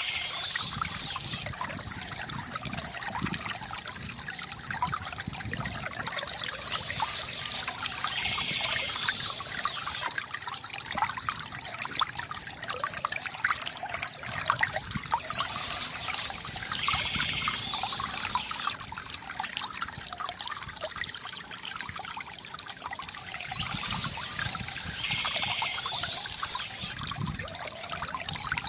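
Shallow stream trickling and babbling steadily over stones, with a brighter, hissier swell returning about every eight seconds.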